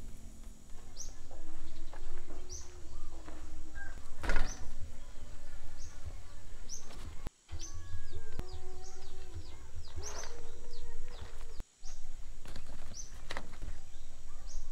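Outdoor rural ambience: a bird repeats short, falling chirps about once a second, a few longer, lower-pitched animal calls are held for a second or so, and a steady low rumble runs underneath. The sound drops out twice for a split second at cuts.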